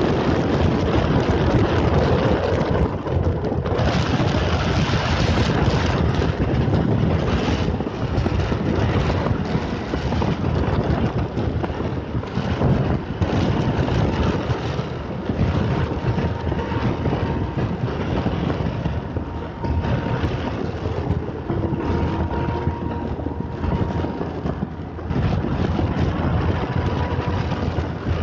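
Wind buffeting the microphone of a moving two-wheeler at highway speed, with engine and road noise underneath.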